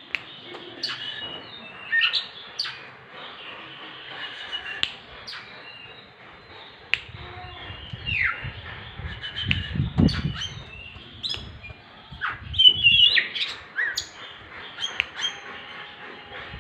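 Oriental magpie-robin (kacer) singing: a run of varied short chirps, whistles and sharp downward-sweeping notes. A low rumble comes in partway through.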